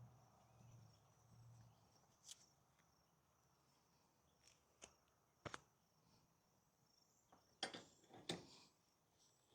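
Near silence with a few faint, sharp clicks and knocks scattered through it. The two loudest come close together near the end.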